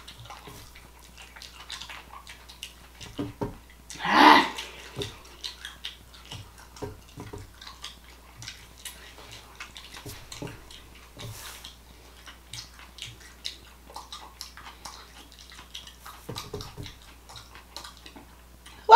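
Close-miked eating sounds: wet chewing, lip smacking and small clicks as a mouthful of chicken and rice is eaten. A single louder mouth sound comes about four seconds in.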